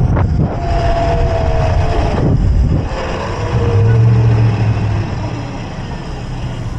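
Riding noise on an electric mini bike: wind rushing over the microphone and road rumble, with a thin whine sliding slowly down in pitch and a low hum from about three and a half to five seconds in.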